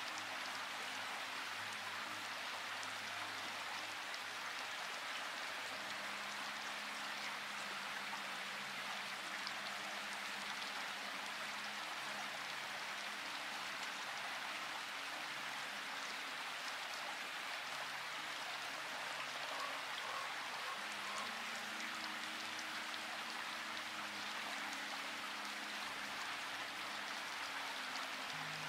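Steady rain falling with a constant even hiss. Underneath, soft held low tones change every few seconds, like a slow ambient music pad.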